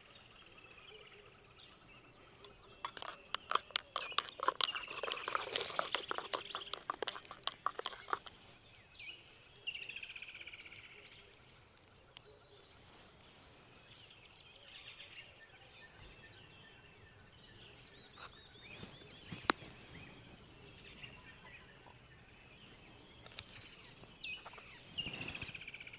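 Birds chirping outdoors, with short falling calls now and then. A few seconds in, a rapid run of clicks and taps lasts about five seconds and is the loudest part; a single sharp click comes later on.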